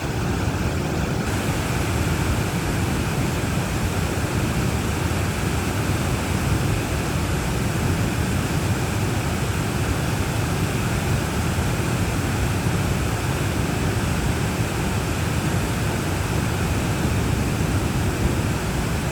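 Two-tier waterfall pouring steadily: a constant, full rush of falling water.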